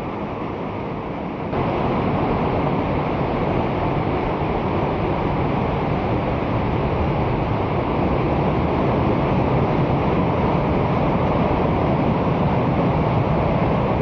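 Rushing water of a river swollen by heavy rain, a steady dense roar that grows louder about a second and a half in.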